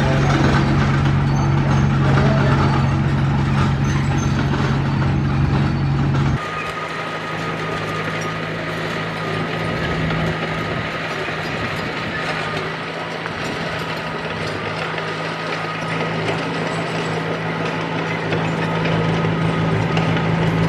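Heavy earthmoving machine's diesel engine running steadily at work. About six seconds in the sound changes abruptly to a lower, thinner engine note with a faint steady high whine over it.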